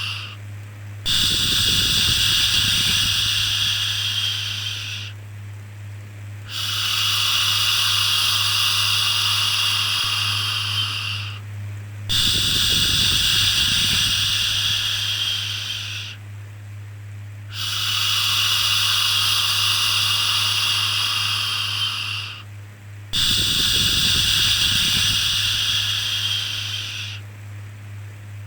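Repeated shushing 'shhh' sounds for calming a baby, five in a row, each about four to five seconds long with a short pause between them, over a steady low hum.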